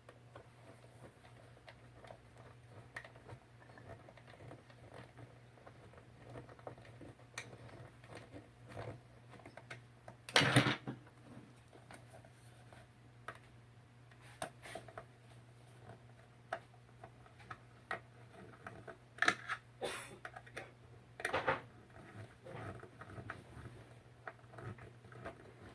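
Phillips screwdriver driving screws into a plastic charging-station faceplate: light, irregular clicks and ticks of the driver and plastic parts, with a few louder knocks about ten seconds in and again near the end. A faint steady low hum runs underneath.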